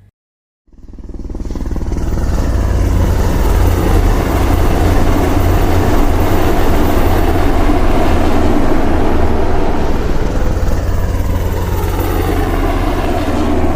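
Loud engine rumble that fades in over about a second after a brief silence, then holds steady, with a tone sinking in pitch near the end as it passes by.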